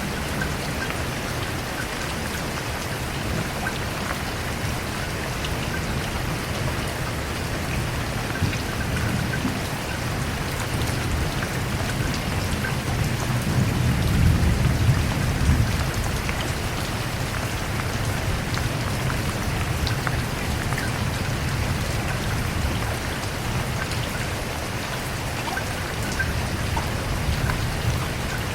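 Steady heavy rain falling, with a low rumble of thunder swelling and fading about halfway through.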